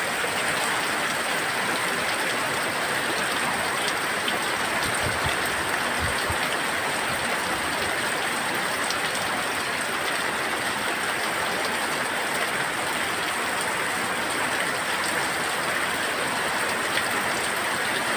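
Heavy rain pouring down steadily in a tropical downpour. There are a couple of low thumps about five and six seconds in.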